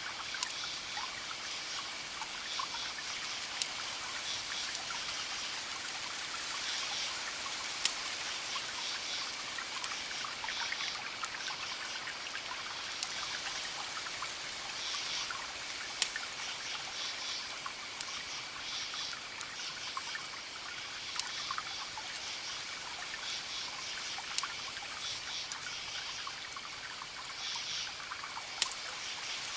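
Campfire crackling with scattered sharp pops, a few louder ones standing out, over a steady chorus of crickets chirping.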